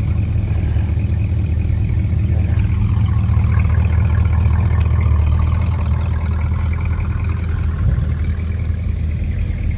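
Classic Ford Fairlane's engine running slowly as the car rolls in, a steady low engine note that swells slightly in the middle.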